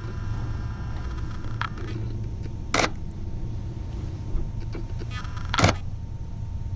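Camera's mechanical shutter firing twice, sharp clicks about three seconds apart, with a fainter click before them, over a steady low hum.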